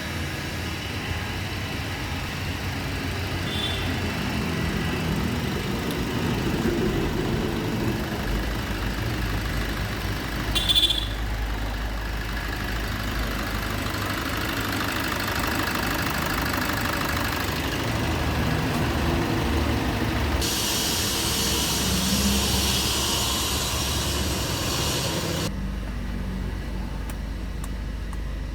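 Maruti Suzuki Vitara Brezza engine running steadily at idle during a carbon-cleaning treatment. There is a sharp click about eleven seconds in, and a hiss joins it for about five seconds near the end before cutting off abruptly.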